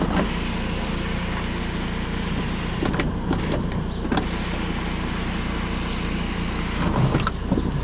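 Electric glass sunroof motor running steadily as the sunroof moves, over a steady low hum, with a few light clicks.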